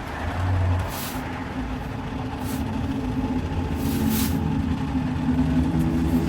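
A motor running steadily, with three short high hisses about one, two and a half and four seconds in.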